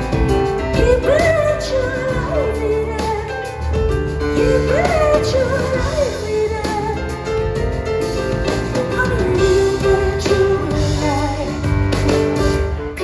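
A woman singing a pop-rock song live over piano and a backing band.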